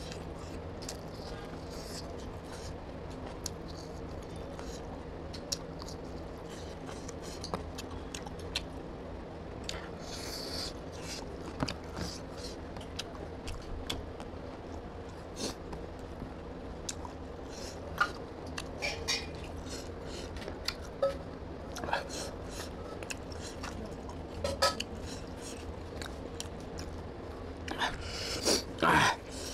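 Close-miked chewing and eating sounds: wet mouth clicks and smacks from a man eating rice and mutton curry by hand, over a steady low hum. A louder run of bites and smacks comes near the end.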